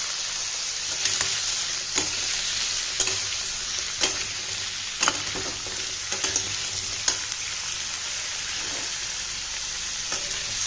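Cubed potato, pumpkin, carrot and raw papaya sizzling in hot mustard oil in a metal kadhai, with a metal spatula scraping and knocking against the pan about once a second as the vegetables are stirred. The stirring pauses for a few seconds near the end while the frying goes on.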